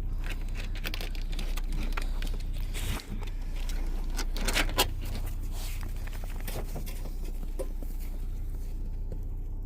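Handling noise as beagles are turned loose: scattered clicks, light jangling and rustling, with a louder rustle about four and a half seconds in, over a steady low rumble.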